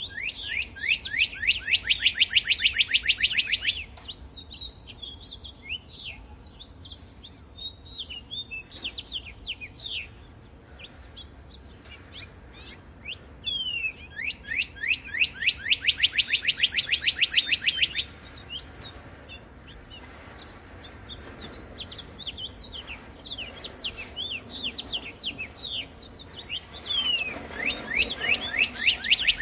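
Songbirds singing: one bird repeats a rapid trill of many quick descending notes, each bout lasting about four seconds, three times, and other birds chirp and whistle softly between the bouts.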